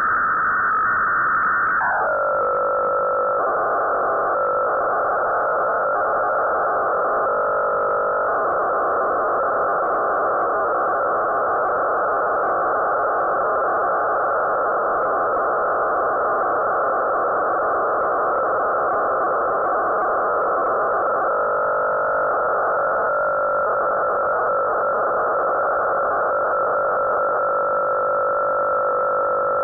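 Shortwave-style SSB receiver audio from an RTL-SDR tuned to the QO-100 satellite's narrowband transponder: several steady whistling carrier tones over hiss, cut off above about 2 kHz. One tone drops in pitch about two seconds in, and short warbling tone patterns come in twice.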